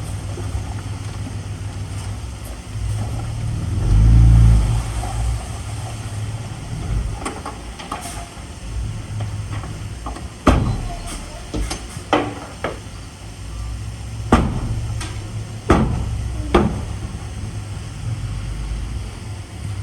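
Diesel engine of heavy earthmoving machinery running steadily, swelling briefly about four seconds in. From about ten seconds in it is broken by a run of about seven sharp metallic clanks.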